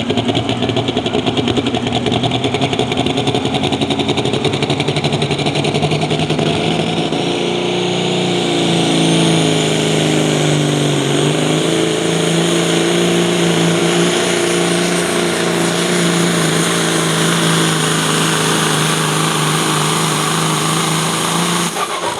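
Pro stock semi truck's diesel engine at full power pulling the sled down the track. Its pitch climbs about seven seconds in, sags briefly, then holds steady until the engine drops off sharply near the end as the pull finishes.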